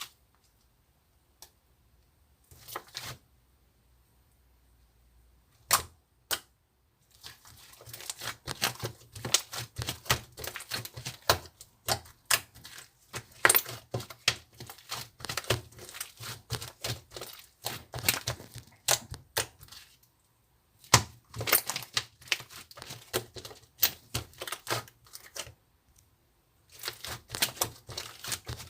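Rapid, irregular clicking and tapping in long runs, like close-up handling or tapping, with a few isolated clicks before the runs start about seven seconds in.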